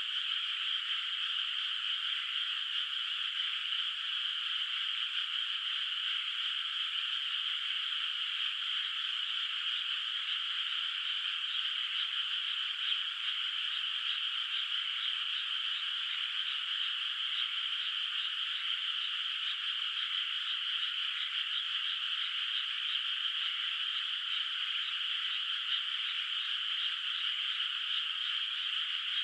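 Dense chorus of many frogs calling together in a flooded rice paddy: a continuous, overlapping mass of calls with no gaps.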